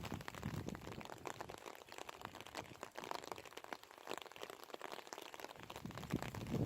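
Rain pattering, a dense run of irregular drop ticks, with a low rumble of wind near the start.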